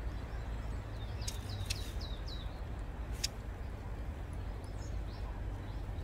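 Long-tailed tit calling: a quick run of about six short, high, falling chirps a second or so in, with a few sharp high ticks. These are alarm calls at the nest. A steady low rumble of background noise runs underneath.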